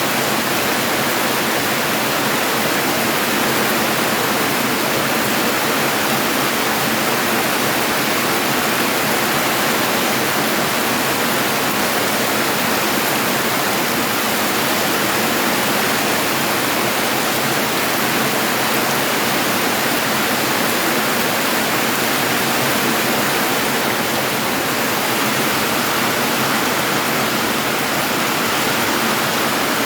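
Steady, even rush of water during a flood, with no break or change.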